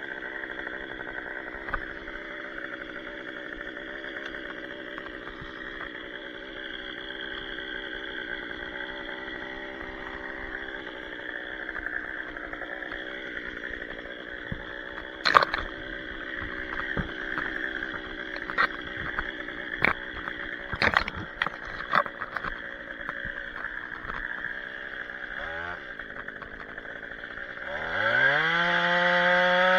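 Two-stroke chainsaw idling steadily, with a string of sharp knocks about halfway through; near the end the engine is throttled up and runs at high revs.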